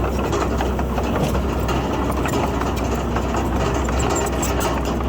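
Bulldozer diesel engine running steadily with a deep low hum, with scattered light clatter over it.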